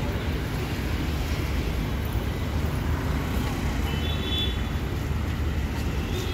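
Steady low rumble from a train, with a faint high tone heard briefly about four seconds in.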